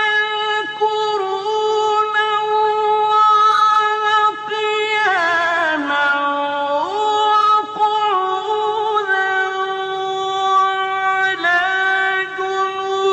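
A melodic Quran recitation voice holding long, drawn-out notes, with a slow downward glide in pitch about five seconds in.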